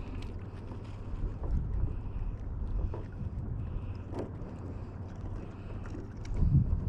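Wind buffeting the microphone over water moving around a kayak, with a few small knocks and a louder low bump near the end.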